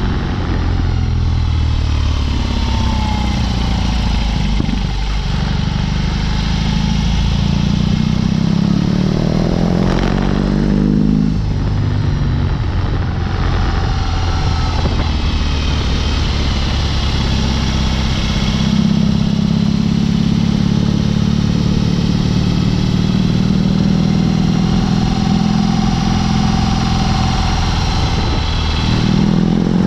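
BMW R18's big boxer twin running through a Dr. Jekill & Mr. Hyde exhaust while riding, the engine note rising and falling with throttle and gear changes, then holding steady in the second half.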